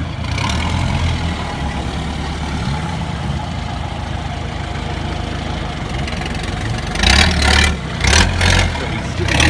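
Off-road 4x4's engine running steadily at low revs, with three short loud bursts near the end.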